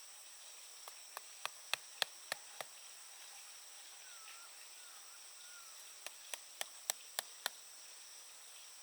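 Insects droning steadily and high-pitched, with two quick runs of sharp knocks, about three a second, near the start and again near the end.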